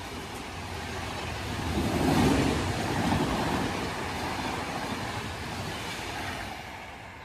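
Express train passing at speed: a rushing rumble of wheels and coaches that swells to its loudest about two seconds in and then fades away.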